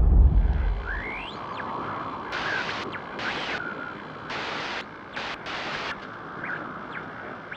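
A steady hiss with a few short rising chirps, broken by several sudden blocks of louder hiss from about two to six seconds in.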